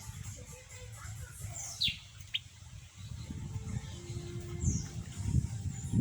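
Small birds calling: a few short, high chirps that sweep downward in pitch, a pair about two seconds in and another near the end, over a low rumbling noise that grows louder in the second half.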